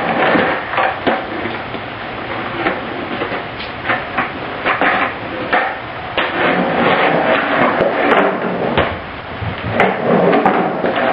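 Skateboard being ridden on a garage floor: wheels rolling, with repeated sharp clacks and slaps of the wooden deck popping and landing.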